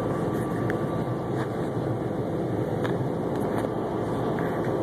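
Steady running noise of a moving SEPTA commuter rail car heard from inside the car: wheels and rails giving an even, low rumble with a few faint clicks.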